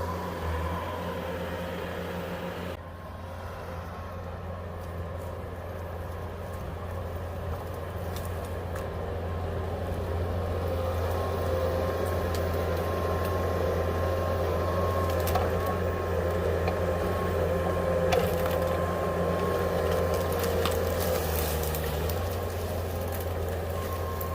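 An engine running steadily, with a low drone and a steady whine, growing louder through the middle as if under load. A few sharp cracks come through about two-thirds of the way in.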